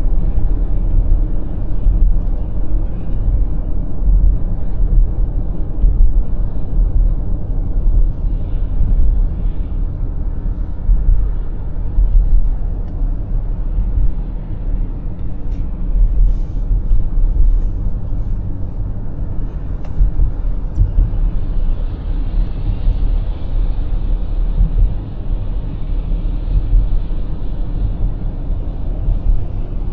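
BMW X5 M50i driving at highway speed: a steady low rumble of tyre, road and engine noise. A little more hiss comes in over the last third.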